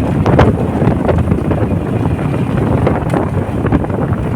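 Wind buffeting the microphone on a moving motorcycle, with the engine and road noise running underneath.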